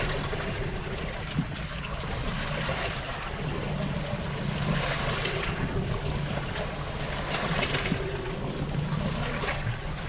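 Sea washing around a small fishing boat, with wind on the microphone and a steady low hum underneath.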